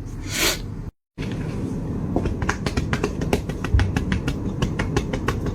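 A rapid, irregular run of small sharp clicks, several a second, over a low steady background. It follows a brief whoosh and a sudden cut to silence about a second in.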